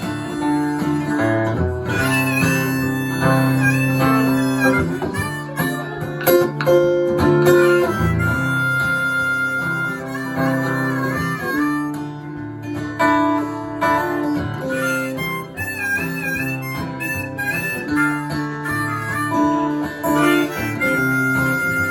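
Instrumental break in a live acoustic song: harmonica playing a sustained, bending lead over acoustic guitar.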